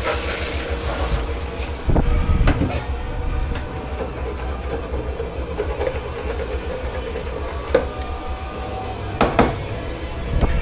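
Steady mechanical running and rumble of a commercial dish pit, with a few sharp knocks and clatters of crockery: one about two seconds in, another shortly after, and two more near the end.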